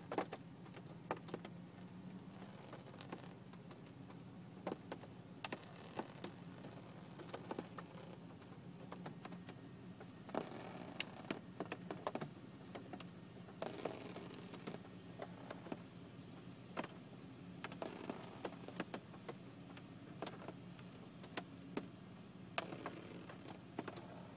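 Raindrops tapping irregularly on a car's windshield and roof, heard from inside the cabin, over a low steady hum.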